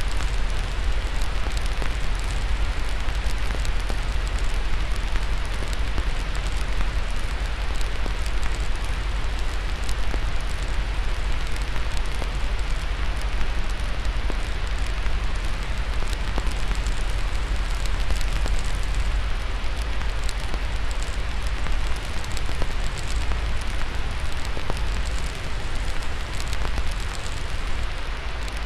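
Steady white noise with a strong low rumble, layered with the frequent small pops and snaps of a crackling fire.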